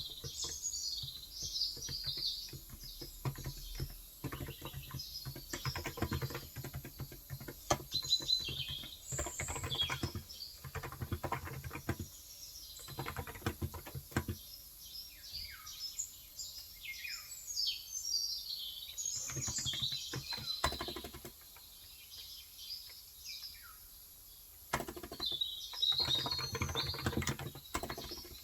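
Typing on a Cox Endeavor electro-capacitive (35 g) tenkeyless keyboard, in fast runs of keystrokes broken by two short pauses, while small birds chirp and whistle in the background, including a few short falling whistles near the middle.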